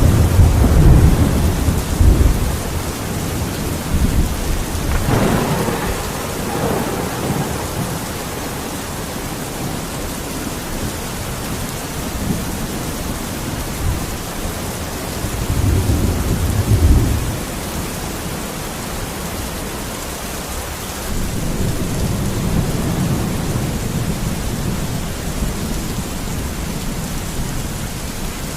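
Steady heavy rain hissing through a thunderstorm, with rolls of thunder rumbling in and fading several times: loudest at the start and around a third and a half of the way through, then a longer low rumble near the end.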